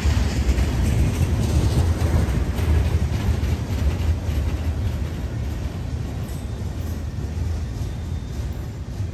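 Covered hopper cars of a freight train rolling past close by: a steady low rumble of wheels on rail with faint clicks, slowly fading as the tail of the train goes by.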